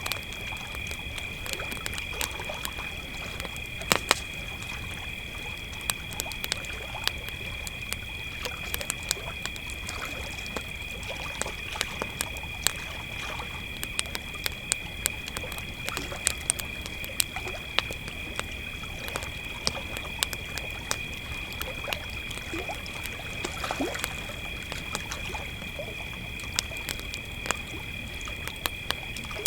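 Crickets chirping in a steady, unbroken high trill, with a campfire crackling and popping irregularly over it; one sharper pop about four seconds in.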